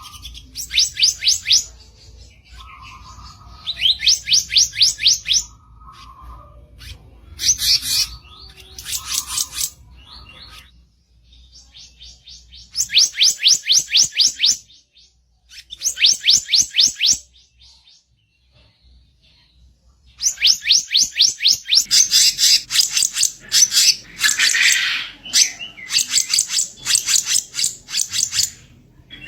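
Black-naped monarch (kicap ranting) giving a harsh song in bursts of rapid, evenly repeated high chirps. Each burst lasts a second or two, with short pauses between them and a longer run near the end.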